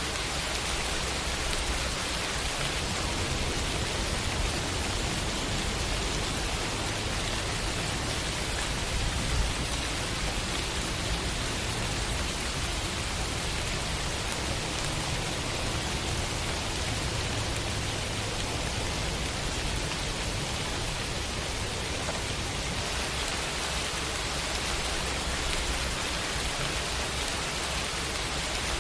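Steady rain, an even hiss with a low rumble underneath, and one brief louder tap about nine seconds in.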